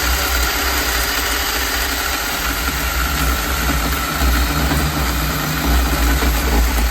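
Craftsman V20 10-inch cordless electric chainsaw running steadily under load, cutting through a limb about 4 inches thick, with a steady whine.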